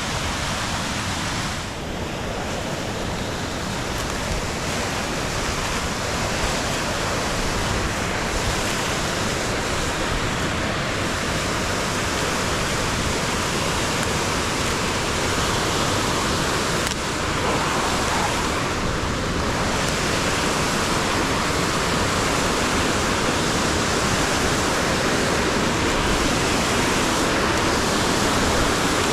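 Rain-swollen creek and waterfall rushing hard: a steady wash of fast water that grows slowly louder.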